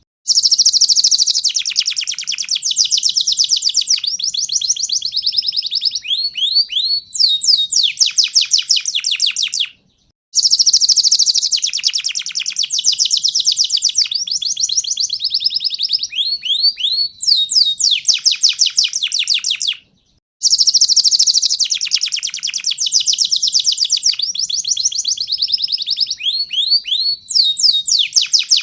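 Domestic canary singing a long song of fast rolling trills and rapid falling whistles. The same phrase of about ten seconds comes three times, each ending in brief silence.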